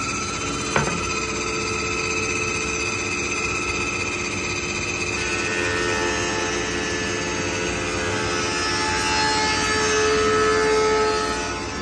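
Felder 20-inch combination planer/jointer with a helical cutterhead running while a board of figured wood is pushed through and cut, with one short knock about a second in. The cutting sound changes about five seconds in, swells shortly before the end, then eases as the cut finishes.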